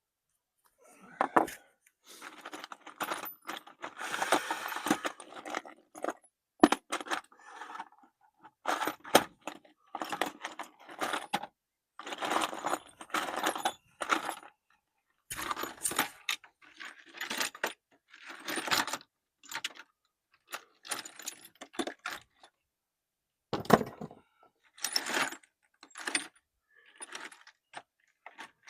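Small metal tools clinking and jangling as they are rummaged through, with a few sharper knocks of metal on metal.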